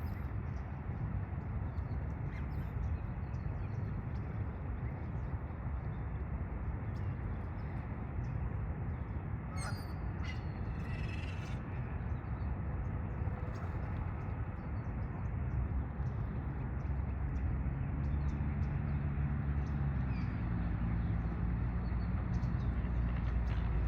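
A steady low outdoor rumble with a few short bird calls about ten seconds in. A low hum grows in near the end.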